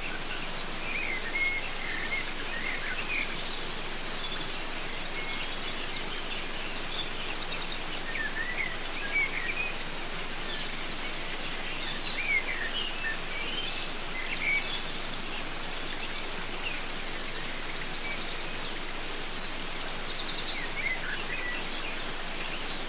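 Steady rush of a waterfall, with several birds calling over it: short chirps and quick trills scattered through, some high, buzzy trills near the middle and end.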